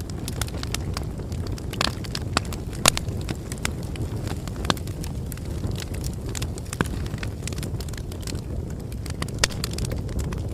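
Bonfire burning, a steady low roar of flames with irregular crackles and sharper pops of burning wood.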